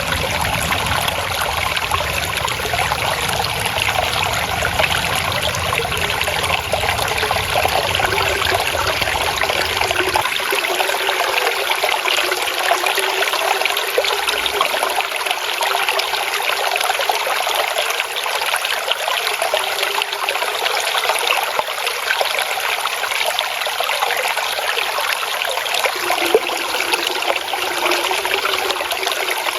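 Flowing water trickling and babbling steadily. A low rumble underneath cuts out about ten seconds in, leaving the higher splashing.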